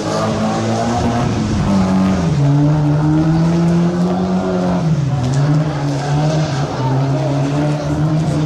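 Mazda MX-5's four-cylinder engine held at high revs while the car spins in circles on wet tarmac. The engine note stays fairly even, dipping briefly and then rising again about two seconds in and again about five seconds in as the throttle is eased and reapplied.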